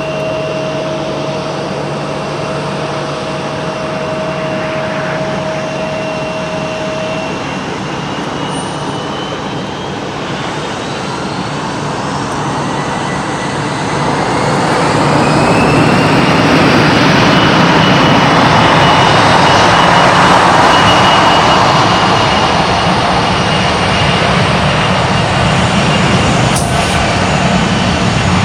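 Boeing 757 jet engines spooling up: the whine rises in pitch over several seconds and the noise grows, becoming a loud, steady jet roar about halfway through.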